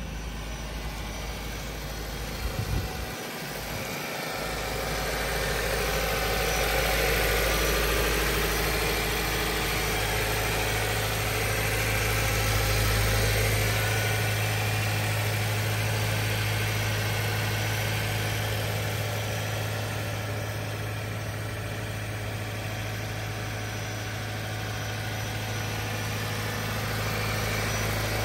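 Lincoln hybrid's gasoline engine idling steadily and smoothly, sounding like a sewing machine. A few short knocks come about three seconds in, and a steady low hum sets in about ten seconds in.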